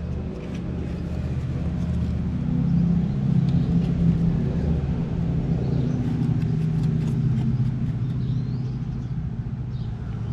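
An engine running steadily with a low hum, growing a little louder over the first few seconds and then holding.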